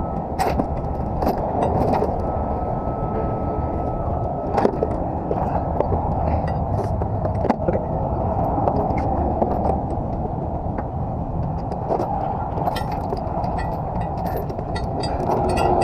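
Steady low outdoor rumble, with scattered sharp metallic clicks and clinks from load chains being handled.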